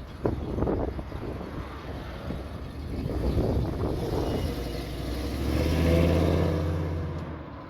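A car engine accelerating away past the listener, growing to its loudest about six seconds in and then fading, with other engine noise underneath.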